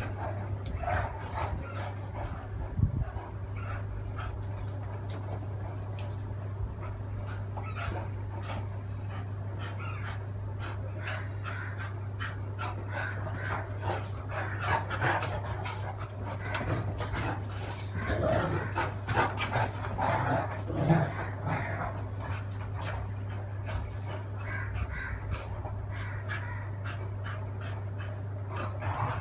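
A Great Dane and a Beagle play-fighting, with barks, whimpers and panting that come thickest and loudest between about 14 and 21 seconds in, over a steady low hum.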